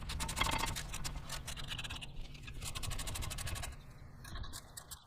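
Ratchet clicking in a rapid, even run as an 18 mm brake caliper bracket bolt is turned out, getting quieter near the end.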